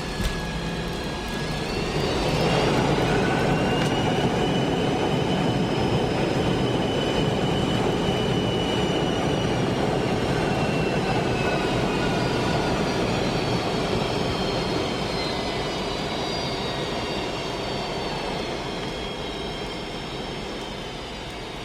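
Jet airliner cabin during the landing roll. A thump comes right at the start. About two seconds in, the engines spool up into reverse thrust: a loud rush with a rising whine. The whine then slowly winds down and the noise eases off as the aircraft slows.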